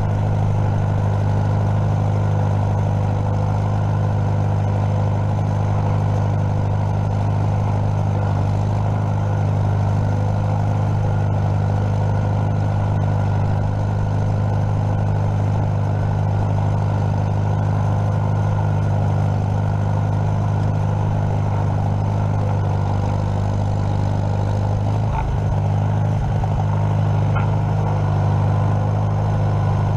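Farmall M tractor's four-cylinder engine running at a steady speed, with a brief small wobble in pitch a little before the end.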